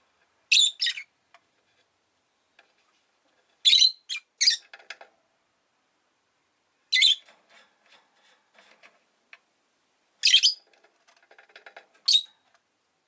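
Rosy-faced lovebird giving loud, shrill chirps in short groups every few seconds, with faint soft chatter between them.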